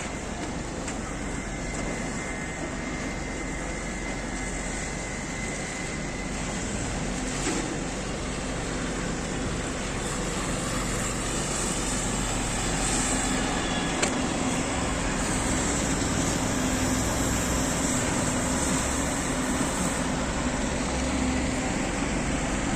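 Steady city street noise with traffic running, slowly growing louder.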